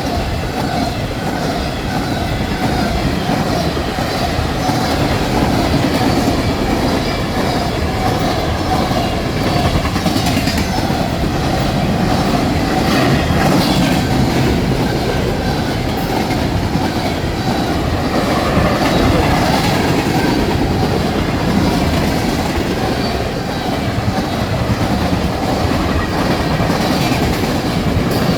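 A fast freight train of empty ethanol tank cars rolling past at speed: a steady wheel-and-rail rumble with clickety-clack over the rail joints.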